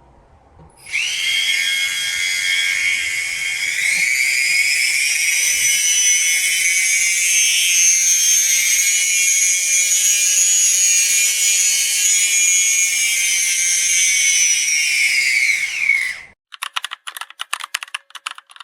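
A small high-speed power tool whining. Its pitch rises a few seconds in, holds steady, then falls away as it stops. Right after it comes a short run of rapid clicks.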